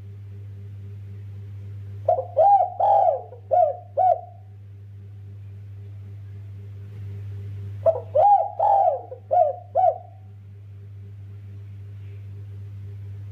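Spotted dove (derkuku) cooing: two phrases of about five notes each, one about two seconds in and one about eight seconds in, each ending in two short separate notes, the 'kuk 2' ending prized by keepers. A steady low hum runs underneath.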